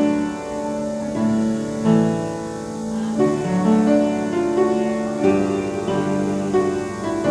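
Piano playing slow, sustained chords, the chord changing about once a second.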